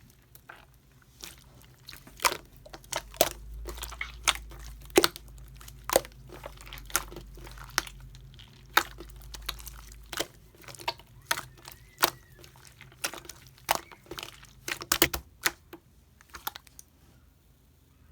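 Slime being pressed and squished by hand, giving irregular sharp pops and crackles, some loud, that die away near the end.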